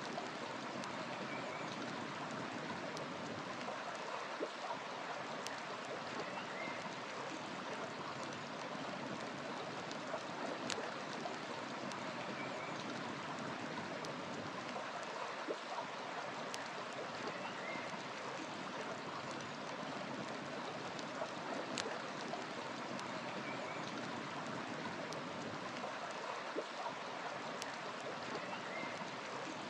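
River water rushing steadily, with scattered sharp pops from burning firewood crackling in the fire and a faint short bird chirp every five seconds or so.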